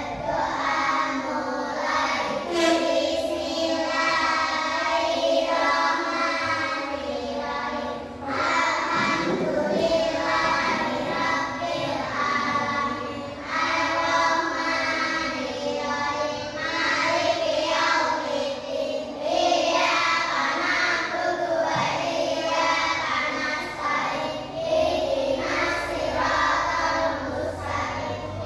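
A group of young children singing a song together in unison, in phrases of about two seconds.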